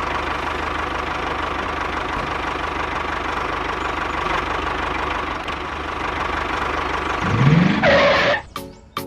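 A motor running steadily. About seven seconds in, a short rising sweep in pitch is heard, and then the running cuts off shortly before the end.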